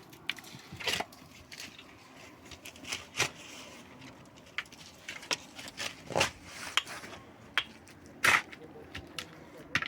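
Irregular knocks and clatters, about a dozen spread unevenly, the loudest a little past the middle and near the end, like hard objects being set down and handled.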